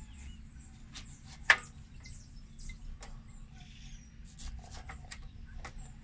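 Birds chirping, with scattered sharp clicks and knocks from handling; the loudest knock comes about one and a half seconds in.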